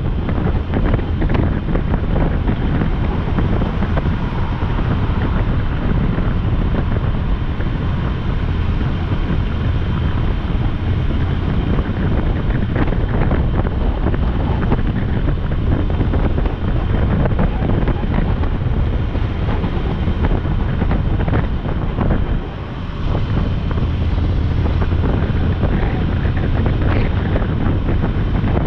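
Wind buffeting the microphone of a moving motorcycle, with the motorcycle's engine and road noise underneath, steady and loud; it drops briefly about three-quarters through.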